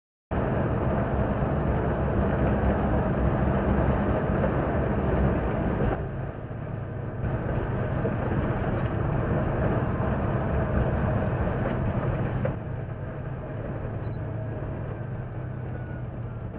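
Steady engine and road noise of a vehicle on the move, as picked up by a dashcam, starting abruptly just after the beginning and stepping down in level twice.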